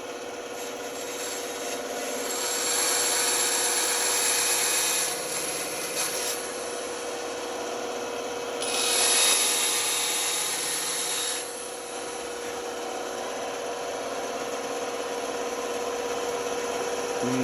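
Band saw running with a steady hum, its blade cutting through wood in two stretches of a few seconds each: one starting about two seconds in, the other near the middle.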